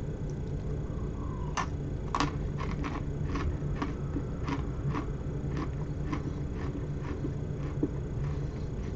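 Crisp wasabi-flavoured biscuit stick being bitten and chewed with the mouth close to the microphone: two sharp snaps of the first bites, then steady crunching about twice a second.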